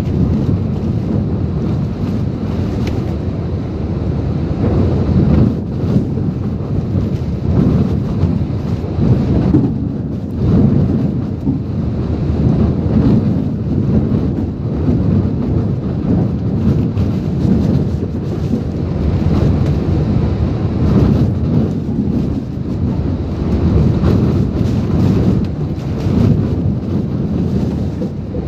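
Typhoon-force wind and driving rain: a loud, continuous low rumble of wind buffeting the microphone, swelling and easing in gusts.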